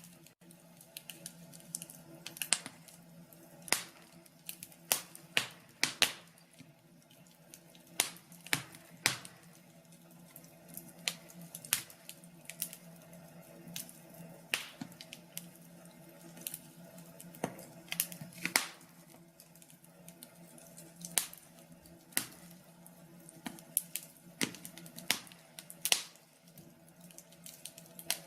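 Wood fire crackling in a fireplace, with irregular sharp pops and snaps.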